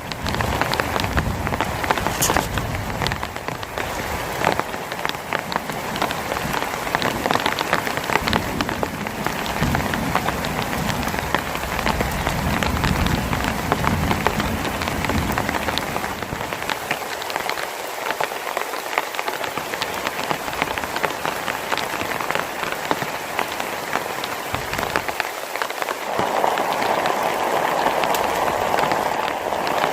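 Heavy rain falling steadily, full of close drop hits on a surface. A low rumble of thunder dies away over the first several seconds.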